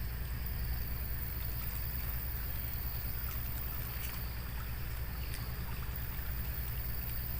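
Steady rushing noise of a swollen, fast-flowing river, with a low rumble and a thin steady high-pitched drone over it, and a few faint ticks.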